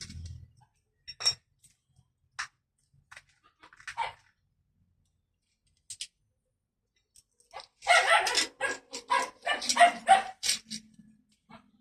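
A dog barking in a quick run of barks in the second half, after a few scattered single sharp sounds.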